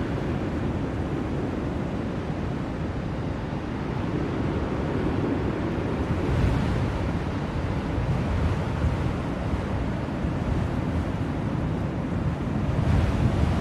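Blizzard wind blowing as a steady low rush, swelling in gusts about halfway through and again near the end.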